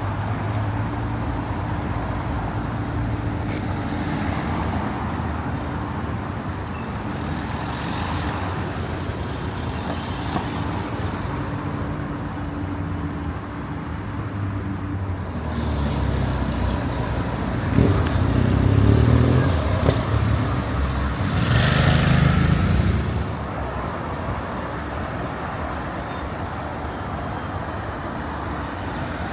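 Road traffic at a busy intersection: vehicle engines run steadily, and louder vehicles pass twice in the second half.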